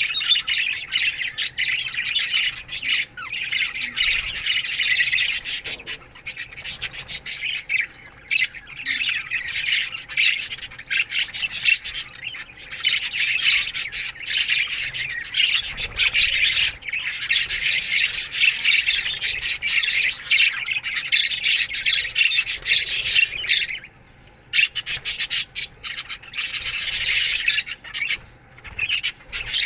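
A colony of budgerigars chirping and chattering together in an aviary, a dense, continuous warble of many birds at once, thinning briefly twice near the end.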